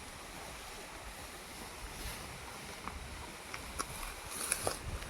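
Wind rumbling on the microphone, with a few light clicks in the second half.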